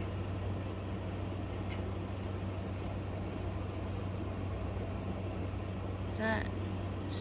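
Feeder crickets chirping steadily in a high, fast-pulsing trill, over a low steady hum.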